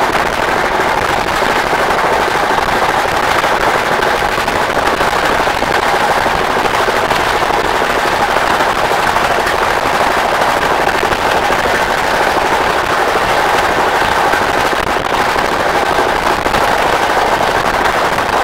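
Passenger train running at speed, heard from on board: a loud, steady rush of rapid rattling and clatter from the wheels and carriages, with a faint steady hum under it.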